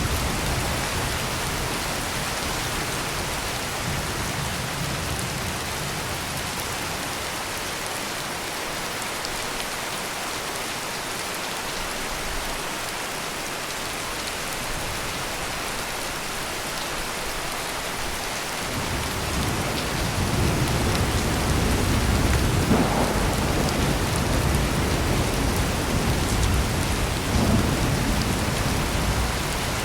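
Steady heavy rain pouring. Low rolling thunder fades out near the start, then swells back in about two-thirds of the way through and keeps rumbling to the end.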